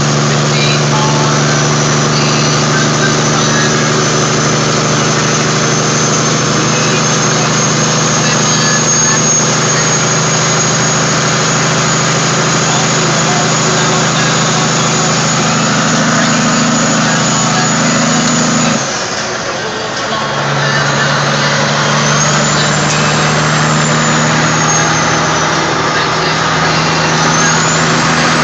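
Caterpillar 3406E diesel of a Kenworth W900A log truck running steadily under way. Its note drops out for about a second and a half about two-thirds through, then picks up again. A faint high whine rises and falls near the end.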